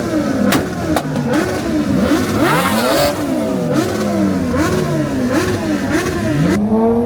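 Car engines revved hard over and over, their pitch climbing and dropping every second or so, with a few sharp pops mixed in.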